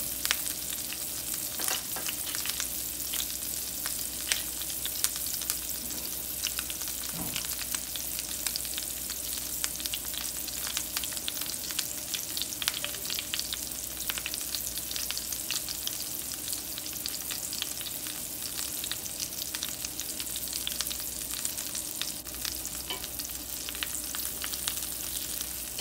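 Two ahi tuna steaks searing in butter in a hot cast-iron skillet: a steady sizzle with many small crackling pops.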